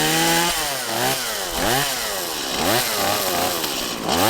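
Gas chainsaw's two-stroke engine running just after it catches, revved up and down about six times, its pitch rising and falling with each blip of the throttle.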